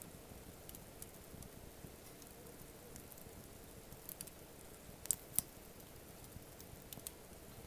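Wood campfire crackling quietly with scattered small pops and ticks, two sharper snaps a little past halfway, close together.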